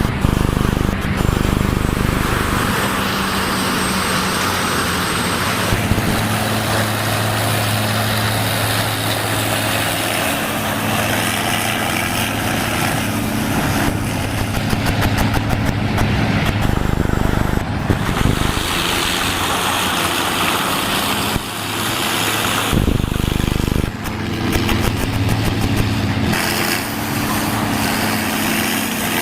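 Large industrial wood chipper running as logs are fed through, its engine note shifting up and down several times under changing load.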